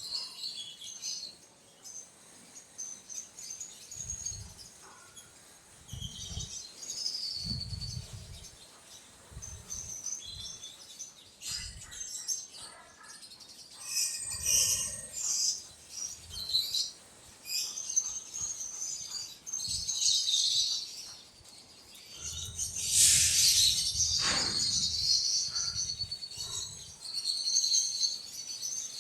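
Small birds chirping and twittering in high, quick calls, with scattered low thumps and a louder noisy burst a little past the middle.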